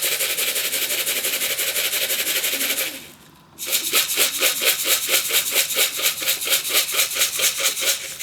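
A tin of pigeon feed shaken steadily, the grain rattling about five times a second, with a short pause about three seconds in. The shaken tin is the signal that calls young pigeons in to be fed.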